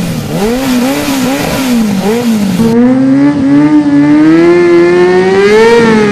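Motorcycle engine revved in a quick series of blips, then held at high revs from a little over two seconds in, the pitch climbing slowly before easing near the end.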